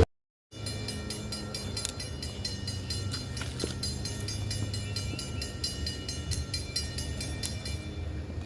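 Train running, heard after a brief silence: a steady low diesel drone with a few steady high tones and a fast, even ticking over it.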